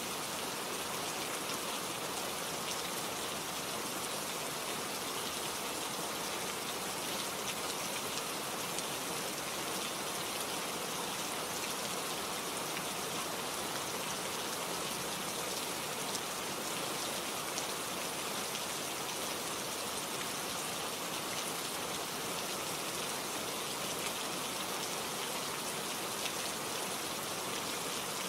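Steady rain falling, with many small drops pattering on leaves and surfaces.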